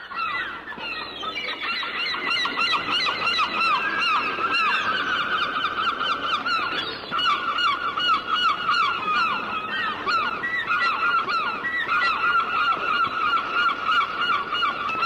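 A large flock of birds calling all at once: many overlapping short calls forming a dense, unbroken chorus.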